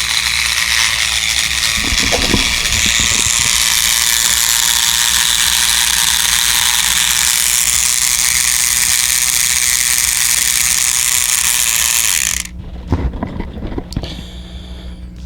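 Battery-powered Trackmaster Victor toy engine's motor and gearbox running with a loud, steady grinding rattle from a worn or loose gear, which the repairer puts down to the gear on the electric motor shaft. It cuts off suddenly about twelve seconds in, followed by a few small clicks.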